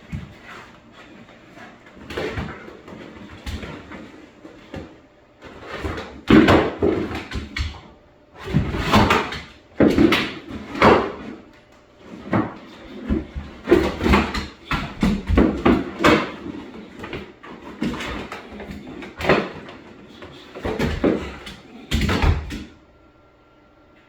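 A puppy's plastic cone (Elizabethan collar) bumping and scraping in irregular bursts about a second apart as the dog struggles to get it off, louder and busier from about a quarter of the way in.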